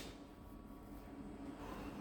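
Low-level background: a faint steady low hum and hiss, with the tail of a loud burst fading out right at the start.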